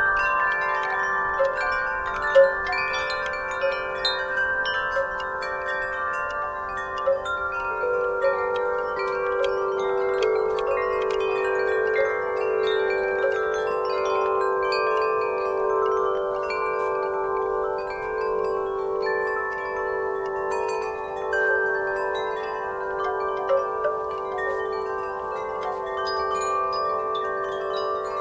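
Wind chimes ringing continuously in a breeze: many tubes struck over and over at irregular moments, their overlapping tones sustaining into a dense, shimmering wash.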